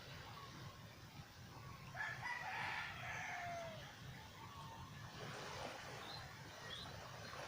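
A rooster crows once about two seconds in, one call of about a second and a half that falls in pitch at the end. Near the end, a small bird gives a few short high chirps.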